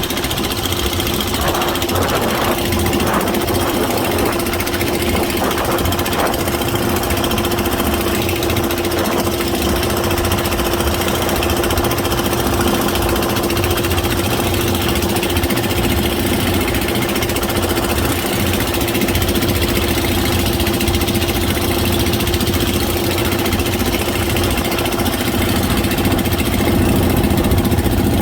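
A boat's engine running steadily with a constant hum, heard from on board during the ride.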